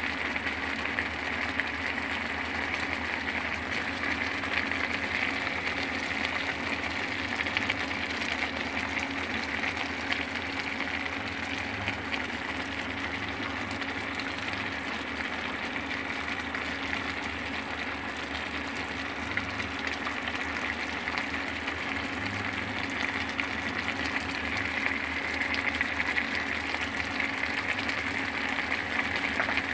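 Food sizzling steadily in a cooking pan, with a light crackle and a steady low hum underneath.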